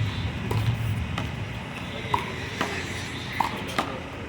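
One-wall handball rally: a small rubber handball is slapped by hand and rebounds off the wall and the pavement, giving a series of sharp smacks at uneven intervals, about one every half second to second.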